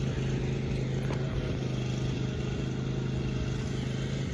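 Riding lawn mower engine running at a steady speed while it pulls a manure spreader.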